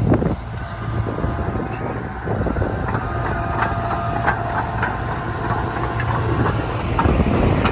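Heavy diesel engine of earthmoving machinery running steadily. From about the middle there is a string of short metallic clicks and clanks and a faint thin squeal.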